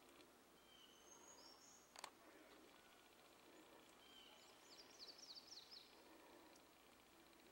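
Faint outdoor quiet with distant songbird calls: a few short high chirps in the first two seconds and a quick run of high notes about five seconds in. A single soft click about two seconds in.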